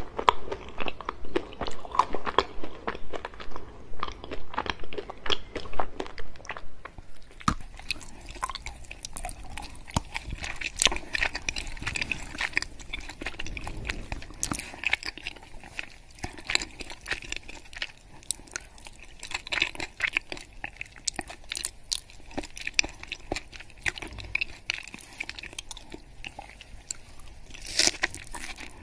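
Close-miked mouth sounds of chocolate being eaten: rapid, loud crunching and chewing of hard chocolate for the first several seconds. After about seven seconds it turns quieter, with soft, sticky chewing and scattered clicks from melting chocolate-covered strawberries, which lack the crunch of cold chocolate.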